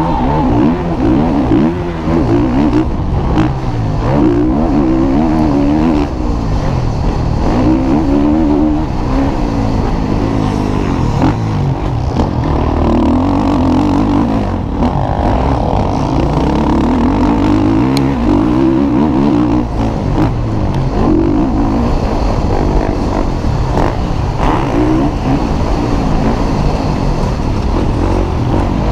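MX1 motocross bikes racing, their engines revving up and falling back over and over as riders work the throttle through the track's sections.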